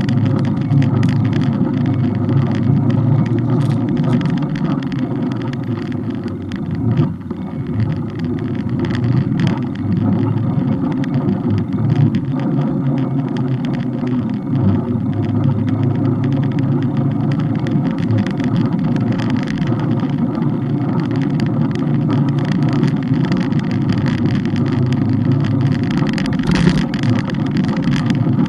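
Steady low rumble of a bike-mounted camera riding over the road, with frequent small rattles and clicks from the mount shaking.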